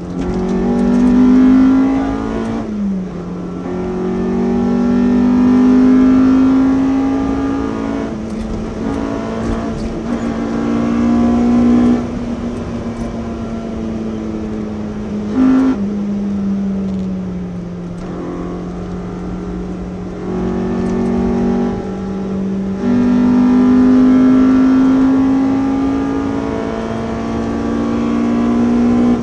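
Honda B18C 1.8-litre DOHC VTEC four-cylinder in a Civic, heard inside the cabin, pulling hard on track. The engine note climbs slowly in pitch through each gear and drops at the shifts, several times over.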